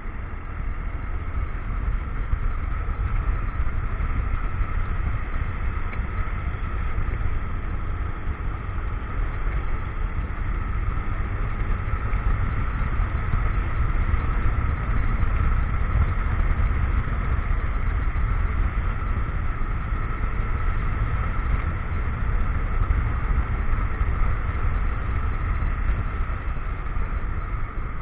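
Motorcycle on the move: the engine runs steadily under heavy wind rumble on the action camera's microphone.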